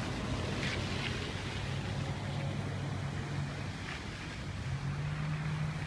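A vehicle engine running with a steady low hum that dips briefly about two-thirds through and comes back slightly higher in pitch, over a haze of wind noise.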